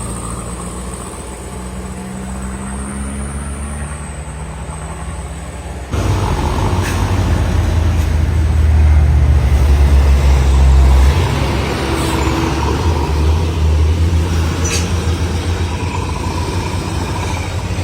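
Heavy diesel trucks passing, their engines worked hard. About six seconds in the sound suddenly gets louder as a deep engine rumble comes close, then it eases off, with a few brief sharp hissing or clanking sounds.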